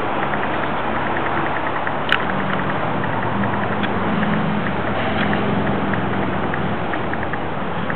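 An engine running steadily with a low wavering hum, and a single sharp click about two seconds in.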